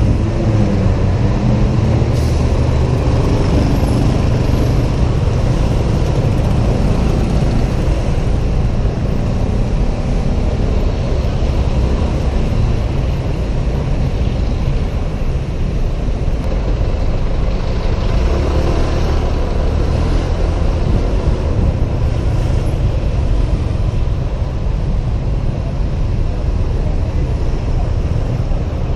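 Riding a Honda PCX 125 scooter in city traffic: heavy wind rumble on a helmet camera's microphone over the scooter's small single-cylinder engine. The engine pitch rises and falls as it speeds up and slows, near the start and again about eighteen seconds in.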